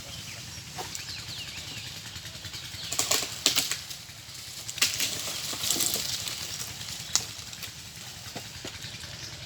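Leafy tree branches rustling and crackling as they are cut and pulled during trimming, in two bursts about three and five seconds in, with a few sharp twig snaps.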